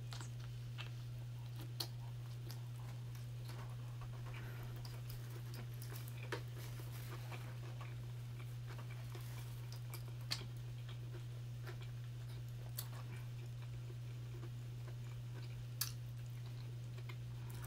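Chewing and biting of a chili cheese dog, with a handful of short, sharp wet mouth clicks every few seconds, over a steady low hum.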